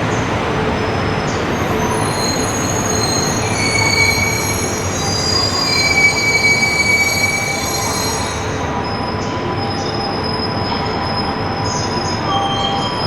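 Shinkansen train running through the station, a steady rumble with thin high-pitched wheel squeals coming and going over it. Strong wind buffets the microphone.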